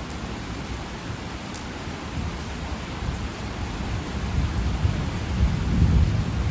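Steady heavy rain with a low rumble of thunder that builds from about two-thirds of the way through and peaks near the end.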